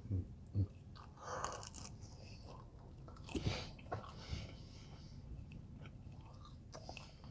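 Quiet, close-miked chewing and mouth sounds, with a few soft clicks and smacks scattered through.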